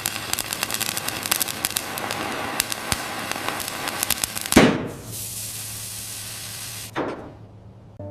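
Dense crackling sound effect for about four and a half seconds, then a loud whoosh followed by a steady hiss, with a second, shorter whoosh near the end.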